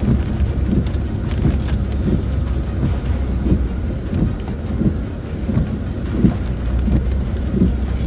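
Land Rover Discovery 4 heard from inside the cabin while driving slowly over a rough, rocky track: a steady low engine drone, with many irregular thumps and knocks as the tyres and suspension go over stones.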